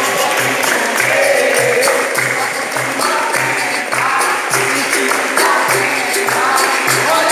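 Capoeira roda music: voices singing over a steady low drum beat about twice a second and the regular jingle of a pandeiro.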